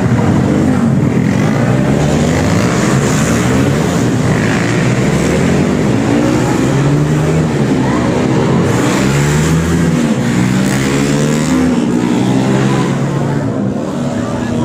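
Several racing motorcycle engines revving at once, their pitches rising and falling as they accelerate and pass.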